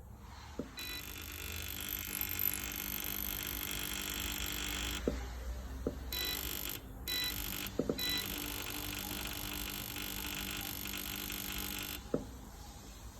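A steady, high electric buzz, switched on with a click, cut off and restarted with clicks a few times, then switched off with a click.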